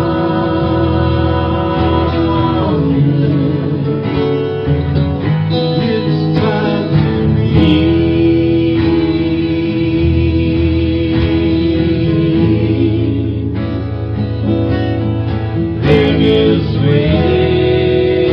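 Live acoustic folk-Americana band playing an instrumental passage led by acoustic guitar, with long held notes over the strumming.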